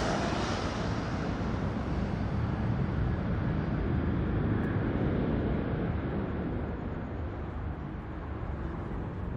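Jet aircraft engine noise fading away as the plane departs: a low rumble that slowly grows quieter and duller as its hiss dies away.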